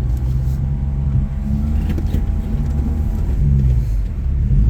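Jeep engine running at low revs under load, a steady low drone as the rig crawls over rocks, with a faint whine that stops about three seconds in.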